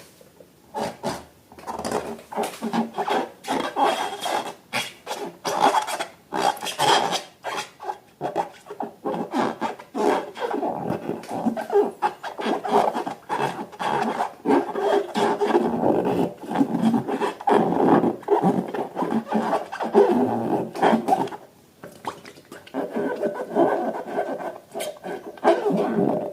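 Slime being worked by hand: a continuous run of irregular rubbing, scraping and crackling, with a short lull about twenty seconds in.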